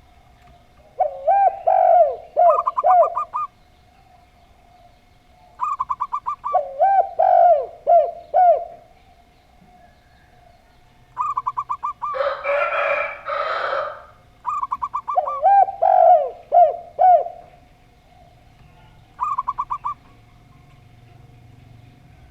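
Zebra dove and spotted dove cooing in four phrases: a fast run of short, even notes answered by lower, falling coos. About twelve seconds in, a harsh rasping noise lasts about two seconds between the coos.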